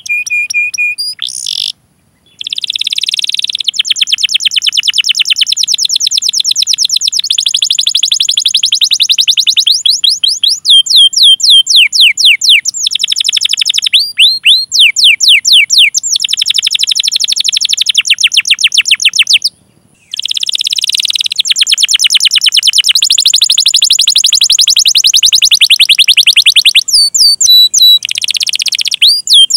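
Domestic canary singing a long song of rapid rolled trills, fast repeated notes and quick falling whistles, broken by two brief pauses.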